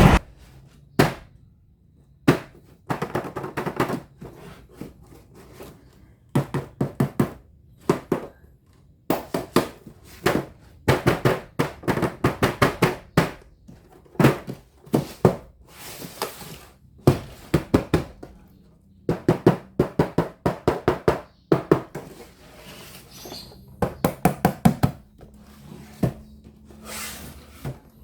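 Plastic toys and their packaging being handled: irregular knocks and clicks, often in quick runs of several taps, with short quiet gaps between.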